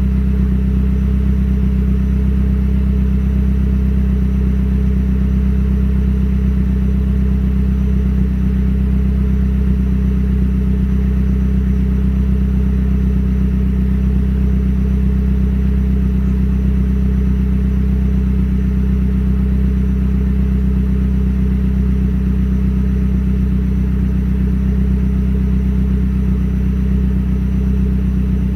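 Mazdaspeed's turbocharged four-cylinder idling steadily through a Magnaflow turbo-back exhaust with a catted downpipe, warming up after a cold start. The low exhaust note holds an even pitch and level, with no revving.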